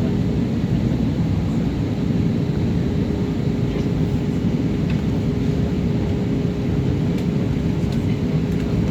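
Jet airliner on approach, heard as a steady low rumble of engines and airflow with a constant hum running through it.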